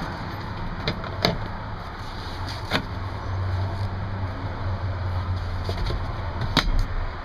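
2007 Ford F-150 pickup engine idling steadily with a low hum, with a few sharp clicks or knocks scattered through, four in all.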